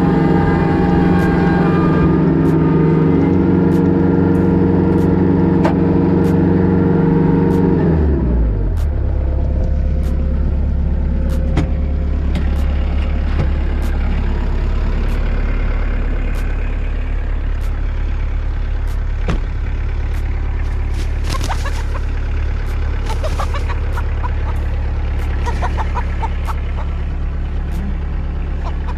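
Kubota B3000 compact tractor's diesel engine running hard, then dropping in pitch about eight seconds in and settling to a lower steady drone. Light ticks sound about once a second throughout.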